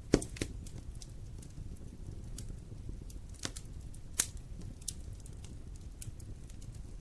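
Wood fire burning in a fireplace, crackling with scattered sharp pops over a low steady rumble; the loudest pops come just after the start and a little past the middle.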